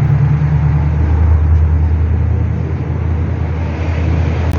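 A motor vehicle engine running steadily with a deep low rumble, cutting off suddenly at the end.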